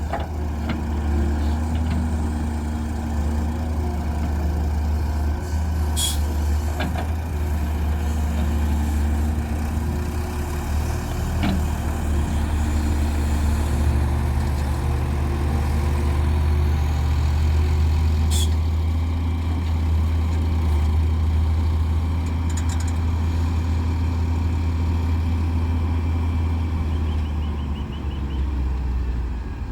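Heavy diesel machinery running steadily with a deep engine drone. Two short sharp sounds come about six seconds in and again about eighteen seconds in, and the engine note drops near the end.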